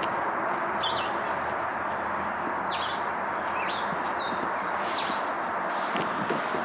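Small birds chirping, with many short, quick, high notes scattered throughout, over a steady rushing hiss of outdoor background noise.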